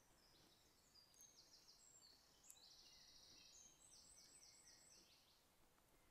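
Faint birdsong: a small bird singing several high phrases, one a quick run of repeated notes, over near silence.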